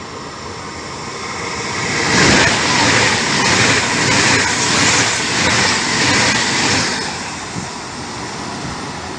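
ETR 675 Italo Evo high-speed electric train running through the station at speed: a rush of wheel-on-rail and air noise that swells about two seconds in, with a regular beat as each car's wheels pass, and eases off near the end.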